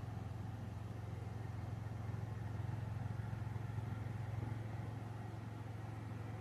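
Lawn mower engine running, a steady low drone.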